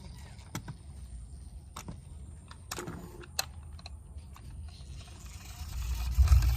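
Scattered light clicks and taps of toy trucks being handled, over a low rumble that swells loud near the end.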